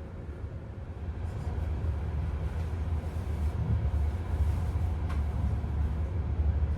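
Steady low rumble of a moving regional train heard from inside the carriage, growing louder about a second in, with a faint click about five seconds in.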